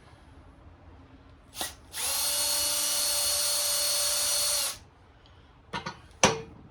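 A power drill/driver runs at a steady pitch for nearly three seconds, backing out a screw from the radial arm saw. A short knock comes just before it, and two sharp knocks follow near the end.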